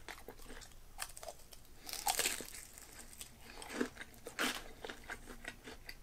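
Close-up crunching and chewing of crisp, freshly fried karaage (Japanese fried chicken), with louder crunches about two seconds in and again a little past four seconds.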